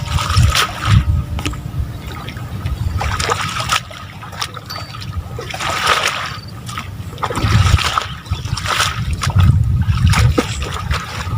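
Water from a motor pump's outflow splashing and trickling into a rice paddy in uneven surges, over a low irregular rumble.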